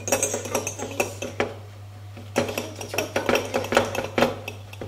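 A spoon stirring and clinking against the inside of a mug in quick runs of taps, with a short pause a little after two seconds in, over a steady low hum.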